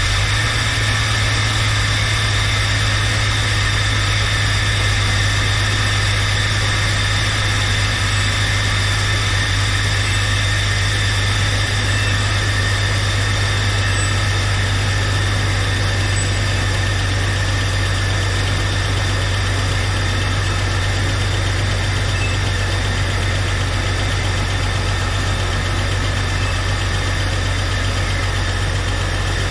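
Jeep Cherokee's replacement 4.0-litre inline-six engine idling steadily on its first run after the engine swap.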